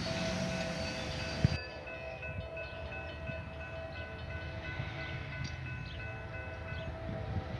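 Train rumbling along the rails with a sharp clank about a second and a half in. Then a locomotive horn sounds one long, steady chord of several notes.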